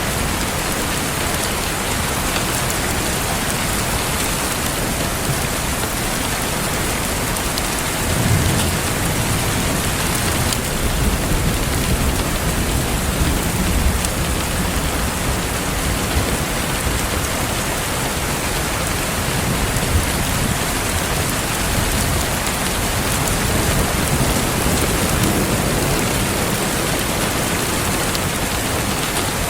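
Steady rain falling, with low rumbles of thunder swelling about eight seconds in and again a few seconds later.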